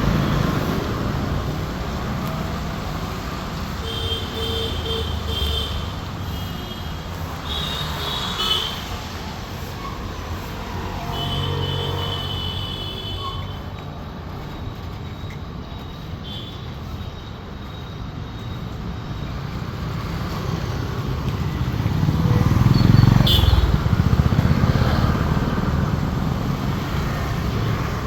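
Road traffic passing steadily, with several short horn toots in the first half. One vehicle passes closer and louder in the last third.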